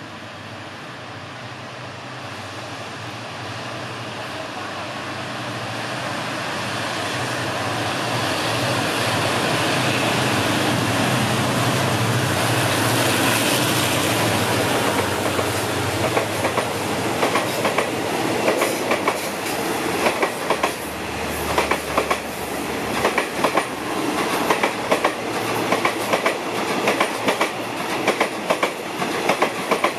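A diesel locomotive hauling a passenger train rolls past, its engine running with a low steady hum that grows louder as it approaches. From about halfway through, the coaches' wheels clack over rail joints and points in quick, irregular clicks.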